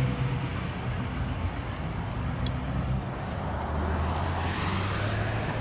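Road traffic noise: a steady rush of passing vehicles with a low hum underneath.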